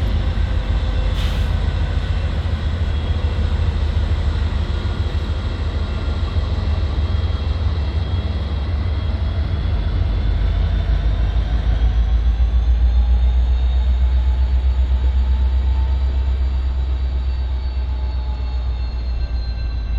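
Norfolk Southern SD60E diesel locomotive and its freight train rumbling as they move on the track, the rumble swelling and easing off over the middle part, with a thin whine that slowly rises and falls in pitch. A single sharp click about a second in.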